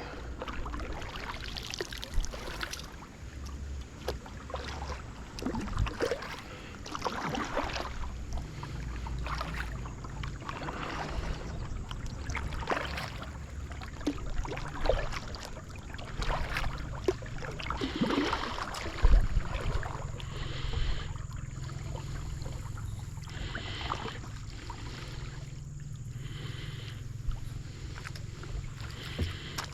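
Kayak paddle strokes dipping and splashing in calm water, repeating every second or two, with drips between strokes. A steady low rumble joins about two-thirds of the way in.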